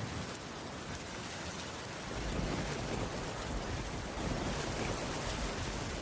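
Steady rainfall, an even hiss, with a low rumble that swells in about two seconds in and holds.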